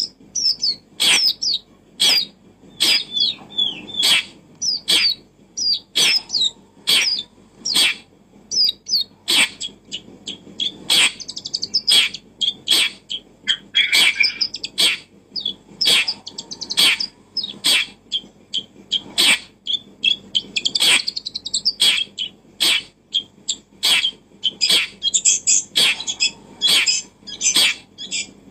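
Birds chirping in quick, high, gliding notes, over a run of sharp clicks about once or twice a second.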